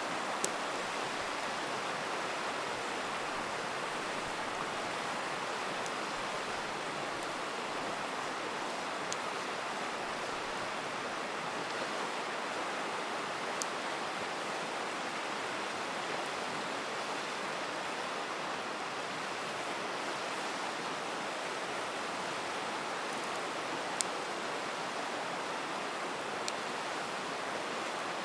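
Steady rushing of a river, with a handful of sharp, scattered crackles and pops from a wood campfire; one pop late on is louder than the rest.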